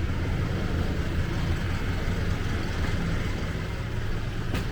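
City street traffic: a steady low engine rumble from nearby vehicles, with a short click near the end.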